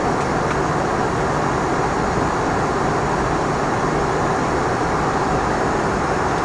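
Steady rushing noise of airflow and the twin turbofan engines inside the cockpit of an Embraer ERJ 145, even and unchanging throughout.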